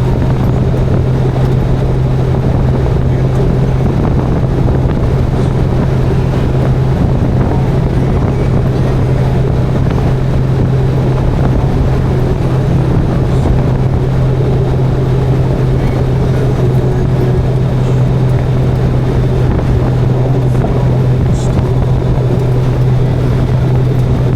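Motorcycle cruising at a steady speed: a constant engine drone under wind noise on the microphone.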